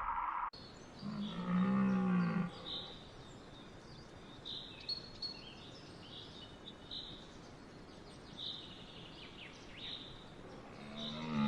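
A cow lowing once, a moo lasting about a second and a half, with small birds chirping in the background. A second moo begins near the end.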